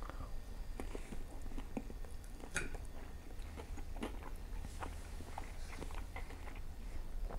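A person chewing a mouthful of battered, sauced fried Chinese food close to a lapel mic, with irregular soft wet clicks and smacks of the mouth.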